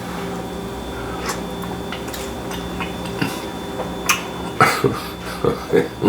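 Someone sipping and slurping broth from a spoon: a few light clicks, then several short wet slurps in the second half, over a steady low hum.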